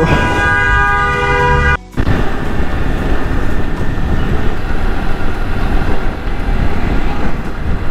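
Rushing wind and road noise of a motorcycle ride picked up by a rider-mounted camera. For the first two seconds a steady pitched tone sits over it, then it breaks off in a brief dropout, and only the wind and road noise go on.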